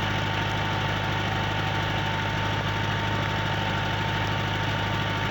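Tractor engine running steadily to drive a post-hole auger, a constant low hum with a thin, steady whine above it.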